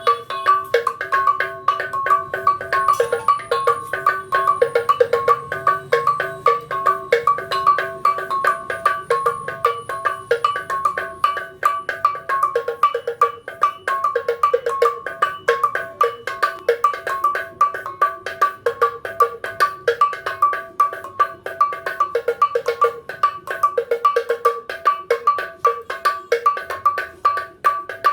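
Traditional Mbam bells struck in a fast, continuous interlocking rhythm, several bells ringing at different pitches.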